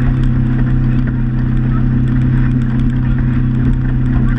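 Motorboat engine running at a steady speed, a constant low drone with faint ticking and splashing over it.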